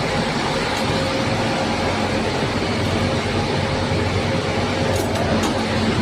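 Electric locomotive running: a steady rumble and hiss with a constant hum, and a couple of faint clicks about five seconds in.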